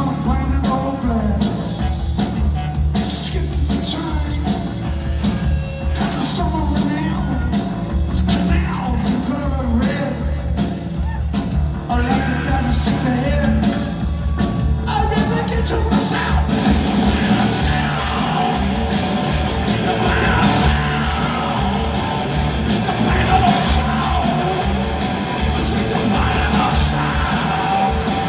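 Rock band playing live with singing over drums, bass and electric guitars, a loud driving beat throughout; the sound gets fuller about fifteen seconds in.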